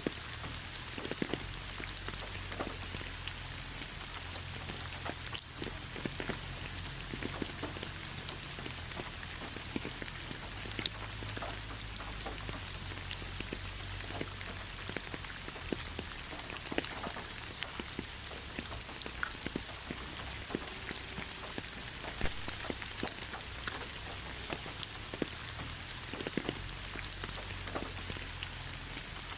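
Steady rain falling, an even hiss with many separate drop hits scattered irregularly through it.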